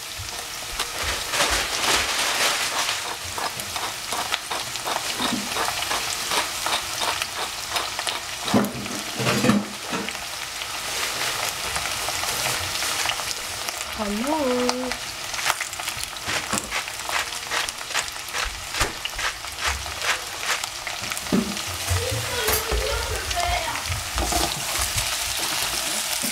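Courgette pieces frying in oil in a stainless steel saucepan over a gas flame: a steady sizzle full of dense crackling. A wooden spatula stirs them near the end.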